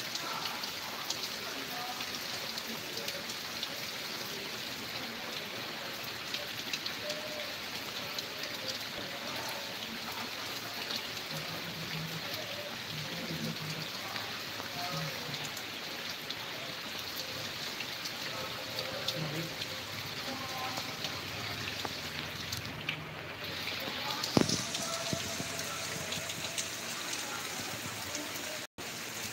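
Steady rain falling, with a dense patter of raindrops hitting surfaces close by. Faint voices are heard in the background, and a single sharp knock sounds near the end.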